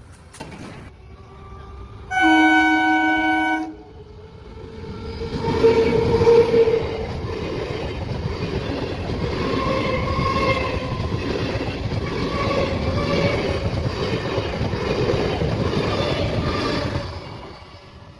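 An Indian express train sounds one horn blast lasting about a second and a half. The train then arrives and passes at speed, its wagons rumbling on the track for about twelve seconds before the sound fades near the end.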